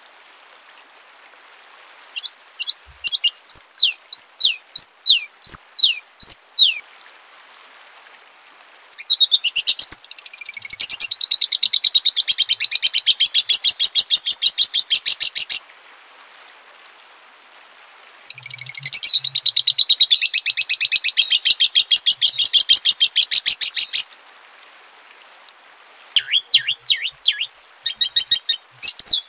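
Songbird song from a masteran training recording for cage birds. A run of about ten short whistled notes, each falling in pitch, is followed by two long, fast, rapidly repeated trills of several seconds each, and then a burst of short notes near the end, with faint hiss in the pauses between phrases.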